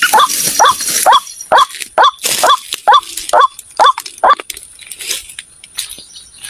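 White-breasted waterhen calling: a fast series of short, loud notes, each rising and falling in pitch, about two to three a second, stopping about four and a half seconds in.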